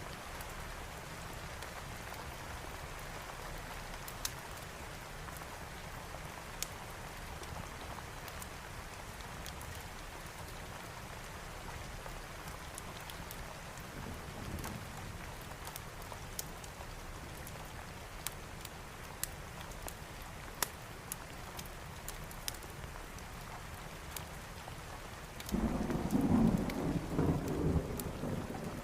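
Steady rain with scattered sharp ticks. A faint roll of thunder comes about halfway through, and a louder rumble of thunder near the end.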